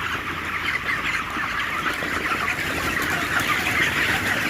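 A large flock of 26-day-old broiler chickens chirping and clucking together in a dense, steady chatter, over a low steady hum.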